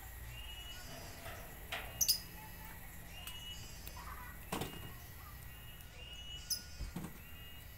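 Small birds chirping in the background: short rising chirps repeat about once a second, with a few sharper, higher chirps among them. A few soft clicks and knocks come in between, the clearest about halfway through.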